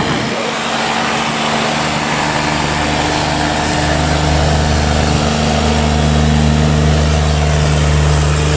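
Boat engine running steadily, growing a little louder through the middle.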